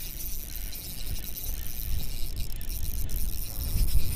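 Wind buffeting the microphone as a low rumble that grows louder, with a few faint ticks of a fishing reel's drag slipping as a hooked fish pulls line against loosely set drag.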